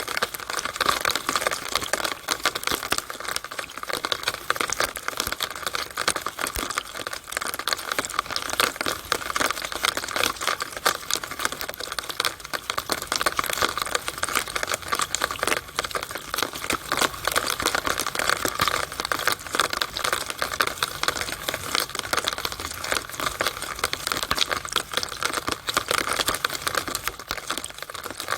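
Rainwater running down and splashing out of a rain downspout: a steady, dense patter of drips and splatters with no pauses.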